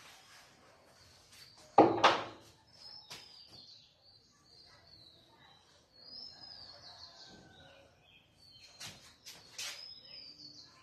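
Small birds chirping in the background, with short high chirps and falling whistles. A sharp, loud knock comes about two seconds in, and a few lighter clicks near the end.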